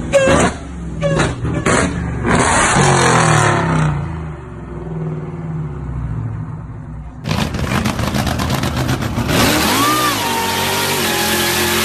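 A high-powered car engine blipping its throttle several times in quick succession, then settling to a lower rumble. About seven seconds in, it cuts abruptly to a louder car at full throttle, with a noisy roar that fills the rest.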